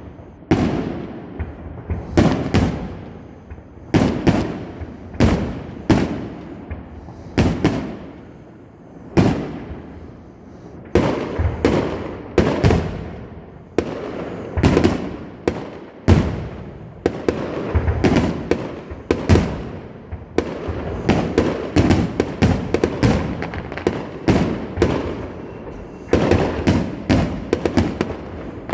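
Fireworks going off: a long series of sharp bangs, about one or two a second at first, turning into a dense, rapid crackle of many bangs from roughly halfway through.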